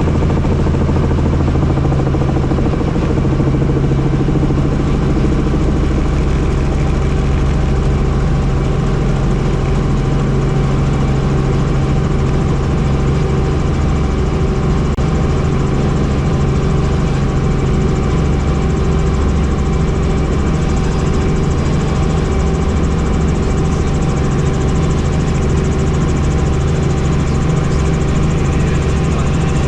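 Helicopter in flight: steady, loud engine and rotor noise, holding an even drone with no change in pitch.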